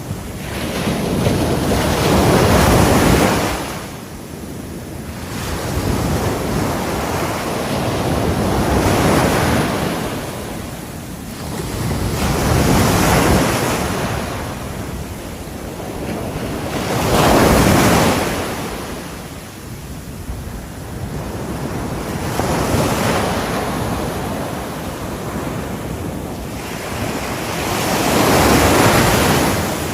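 Ocean waves breaking on the shore, each surge of surf swelling and washing back roughly every four to five seconds.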